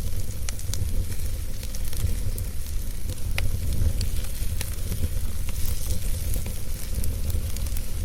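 Wood fire burning in a fireplace: a steady low rumble with scattered small crackles and pops, several a second.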